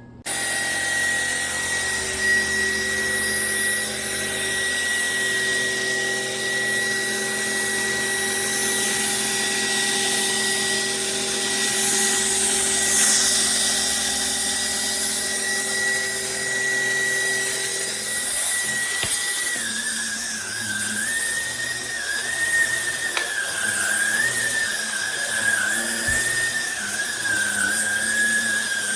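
Trucozie cordless stick vacuum cleaner running, its motor giving a steady high whine; about two-thirds of the way through the pitch starts to wobble up and down.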